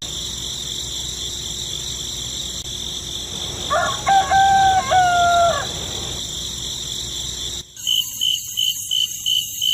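A rooster crowing once, a call of about two seconds that rises, holds and drops away, over a steady high hiss. Near the end the background changes to a high chirp repeating about twice a second.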